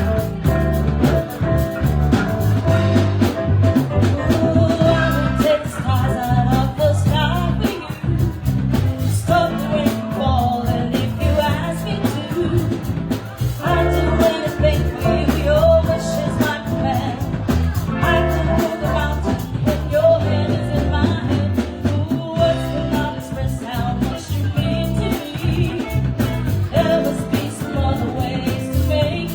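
Live band playing a song: a singer over guitar, bass and drums, with a steady beat throughout.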